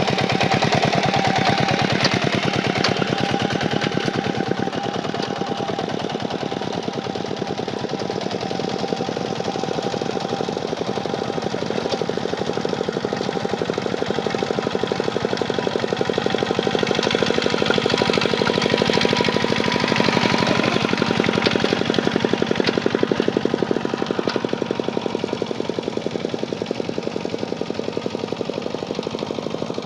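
Kubota tractor's diesel engine running steadily under load while plowing, with a rapid, even knocking beat.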